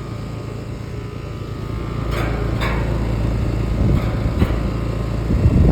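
Large air-conditioner fan with long blades running, a steady low hum that grows louder about two seconds in. A few short knocks come in the middle, and heavy low bumps come near the end.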